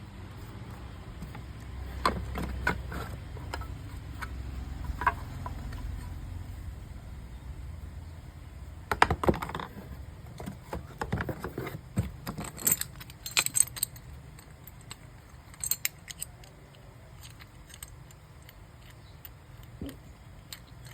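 Scattered clicks and light metallic clinks of hand-handled metal parts, thickest in the middle, over a faint low rumble at the start; the electric planer's motor is not running.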